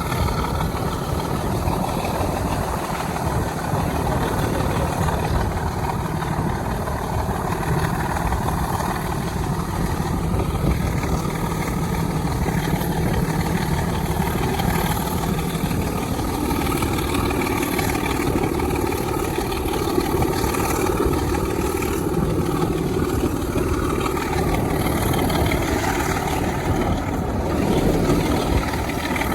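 Diesel locomotive engine running hard, a loud steady rumble with train noise. Its note shifts higher about sixteen seconds in.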